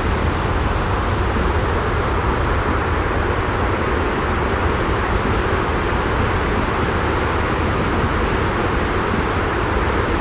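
A steady, unchanging white-noise recording with a deep low rumble under an even hiss.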